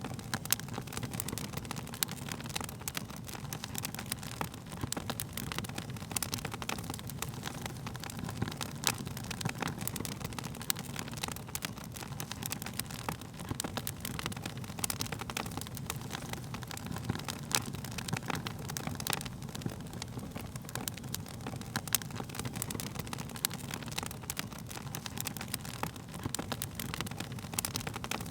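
Wood fire burning steadily with a low rumble of flames and frequent sharp crackles and pops from the burning wood.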